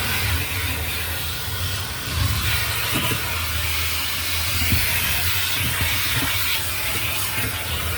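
An automatic car wash running, a steady loud hiss of spray over a low machine rumble, with a few faint knocks.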